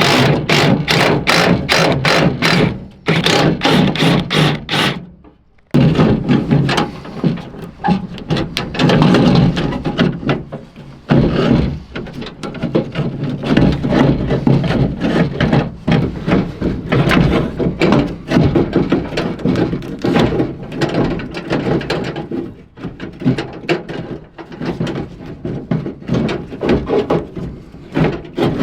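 A hand ratchet wrench clicking in steady strokes, about four clicks a second, for the first five seconds. After a brief pause comes a long run of irregular knocks and rattles from hand work on the truck.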